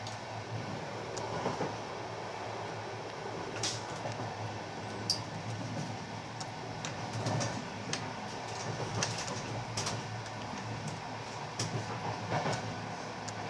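Ride noise inside a moving passenger train carriage: a steady rumble of the wheels on the rails, broken by irregular sharp clicks and knocks.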